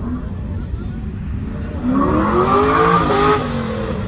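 Car engine revving hard as a car accelerates past, the pitch rising for about a second and then falling away, over a steady low rumble.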